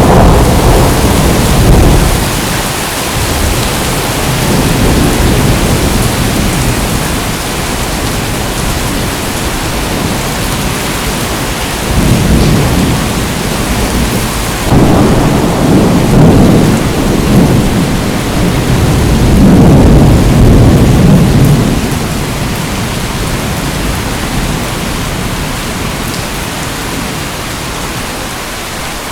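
Steady heavy rain with thunder rumbling under it in several long low rolls, one at the start and a longer stretch of rolls in the middle, dying down near the end.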